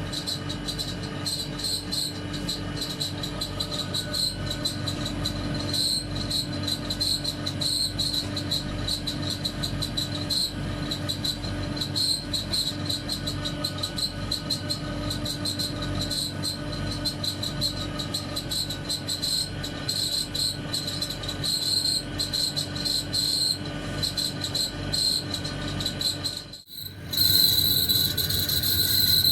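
Refrigeration monoblock running with a steady, pulsing high-pitched whistle over a low hum: the foreign whistling noise of a faulty fan motor. The sound cuts out briefly near the end and comes back louder.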